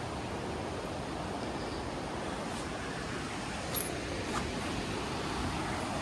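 Steady, even rush of the Alsea River running high below Alsea Falls, with a couple of faint ticks about four seconds in.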